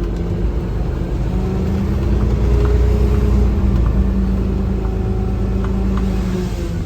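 Garbage truck engine running steadily as the truck drives, a low rumble with its pitch shifting slightly now and then.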